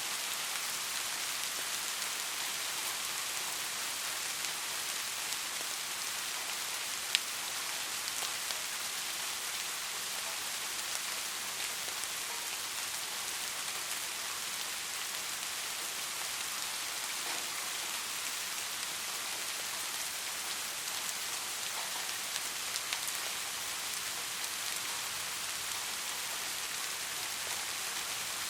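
Steady rain falling on a street, an even hiss with scattered drips, and one sharp click about seven seconds in.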